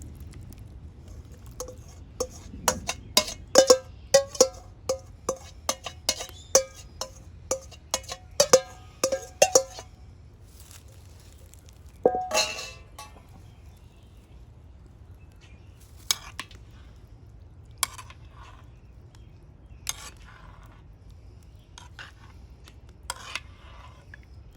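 Metal utensil clinking against a metal cooking pot: a quick run of strikes, each with a short ring, for several seconds. A longer, louder clatter comes about halfway through, then a few single clinks.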